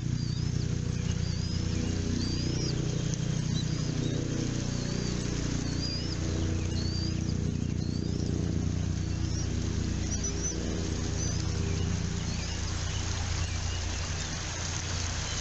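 Bald eagle nestlings peeping: short, thin, high chirps that rise and fall, repeated about once a second, over a steady low rumble.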